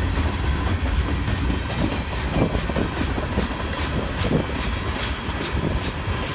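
Freight train of tank cars rolling past: a steady low rumble with scattered clicks and clacks from the wheels on the track.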